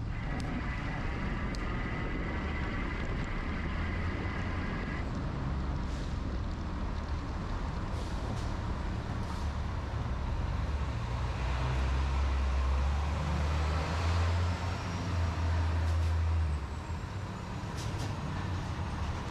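Street traffic noise, with a heavy road vehicle's engine rumbling louder about two-thirds of the way through and easing off after. A steady high whine is heard for the first few seconds.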